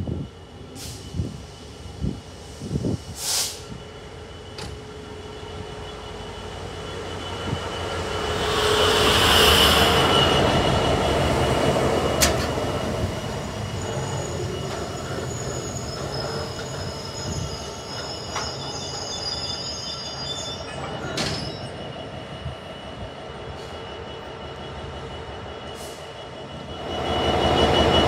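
Freightliner Class 66 diesel locomotive passing close, then its long train of box wagons rolling by with a steady wheel rumble and a thin, high wheel squeal. A few sharp thumps sound in the first seconds, and about 27 s in another Class 66 comes in loud as it passes.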